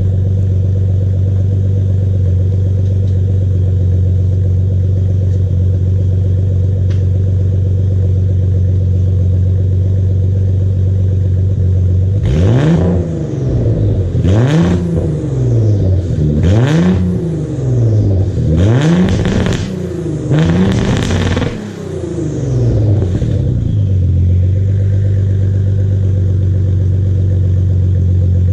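Nissan 300ZX Z32's twin-turbo VG30DETT V6 through a Kakimoto turbo-back exhaust with test pipes, idling steadily for about twelve seconds. It is then revved in a series of about five or six quick blips, roughly one every two seconds, each rising and falling in pitch.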